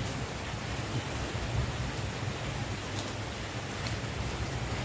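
Steady rain falling, with an occasional faint drop tick.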